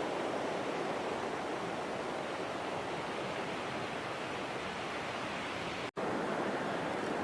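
Steady rushing noise of surf breaking at a river mouth, broken by a split-second gap of silence about six seconds in.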